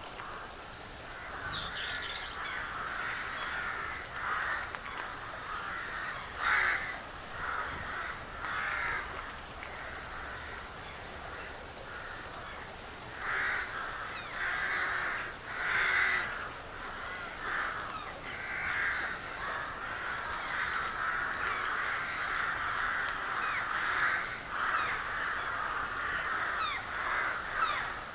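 Crows cawing over and over, several harsh calls overlapping almost without a break, with faint high chirps of small birds now and then.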